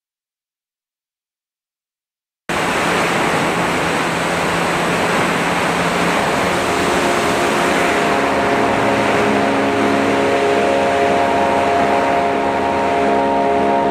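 Silence for about two and a half seconds, then, cutting in suddenly, loud steady wind rush over an onboard camera on an E-flite Timber RC plane in flight, with a steady whine from its electric motor and propeller coming in under it.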